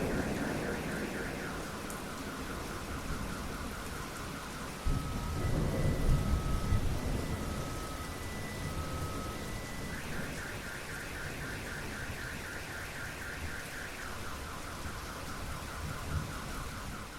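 Steady rain with thunder: a rumble dying away at the start, then a sharp clap about five seconds in that rolls on for a couple of seconds. Through it a car alarm cycles its tones: a fast warbling pulse, then alternating two-pitch beeps about once a second, then the fast warble again.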